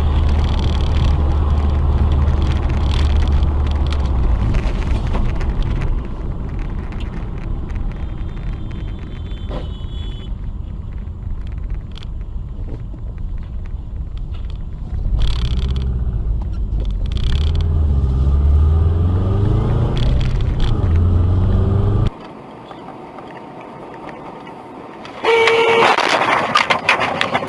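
Car engine and road rumble heard from inside a moving car, rising and falling, then cutting out abruptly. Near the end a car horn sounds loudly among a burst of noise.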